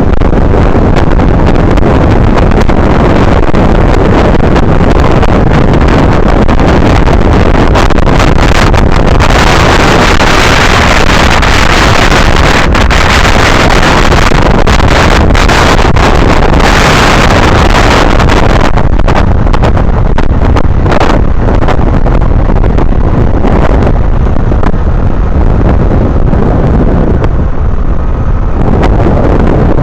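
Heavy wind buffeting on the microphone over the running engine of a Honda Navi mini bike being ridden. The noise swells about ten seconds in and eases off near the end.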